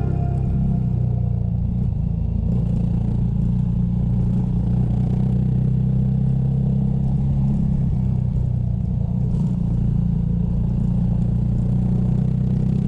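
Motorcycle engine running at a steady, unchanging speed, a low even hum with a faint rattle over it.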